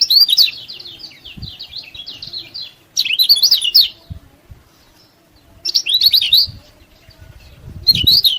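Kecial kuning, a white-eye songbird, singing in four bursts of rapid, high twittering phrases separated by short pauses.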